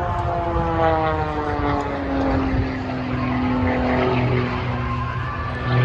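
Propeller engine of an Extra 330SC aerobatic plane; its note falls in pitch over the first two or three seconds as the plane passes, then settles into a steadier drone.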